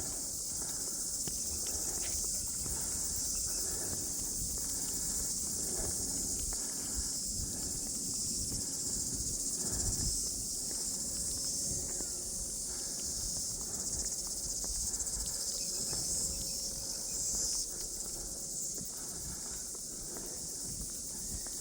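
A steady high-pitched chorus of insects chirring in the bush, with footsteps walking along a path underneath.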